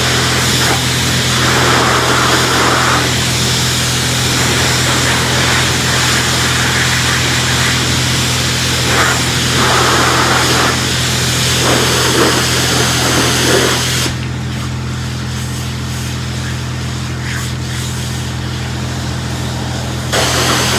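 Pressure washer running: a steady motor hum under the rush of water spraying. About 14 seconds in the spray stops for several seconds while the hum carries on, then the spray starts again near the end.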